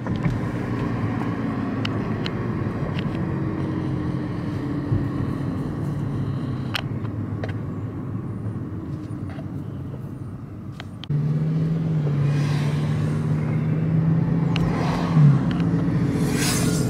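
Car driving: steady engine hum and road noise. About eleven seconds in it gets louder, with a stronger steady engine tone.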